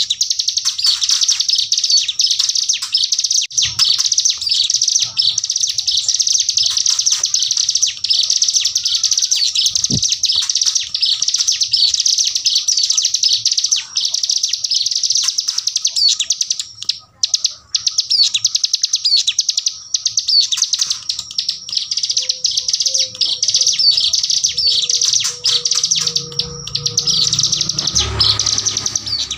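A ciblek gunung, a mountain prinia, sings its 'bren' style: a high, very fast, machine-gun-like chattering trill kept up almost without pause, with one short break just past the middle. A faint low rumble comes in near the end.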